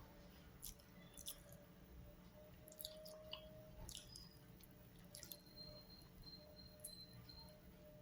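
Faint close-up eating sounds: chewing, with scattered soft wet clicks and squelches over a low steady hum.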